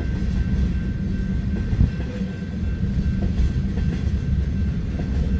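Freight train cars rolling past on steel wheels, a steady low rumble, with one sharp clank a little under two seconds in.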